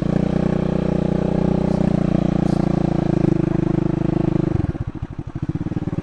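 Small motorbike engine running at steady raised revs, then dropping back about four and a half seconds in to a slow, uneven chug at low revs.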